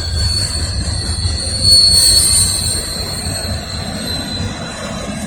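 Intermodal freight train cars rolling past with a low rumble, their wheels giving a high, steady squeal that is loudest about two seconds in and eases toward the end.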